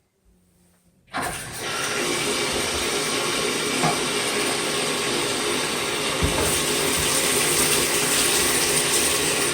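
Vacuum cleaner motor starting about a second in and then running steadily with a high whine.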